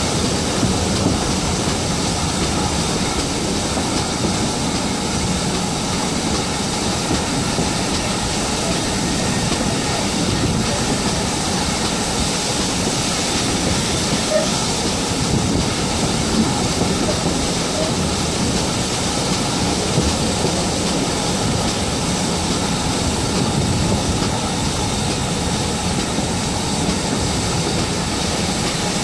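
A heritage train in motion behind a GWR 56xx 0-6-2T steam tank locomotive, heard from an open carriage window: a steady rumble and rush of the train running on the rails, with a few small knocks.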